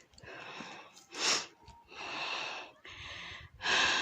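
A person breathing hard, out of breath from climbing a steep slope, with two louder breaths about a second in and near the end.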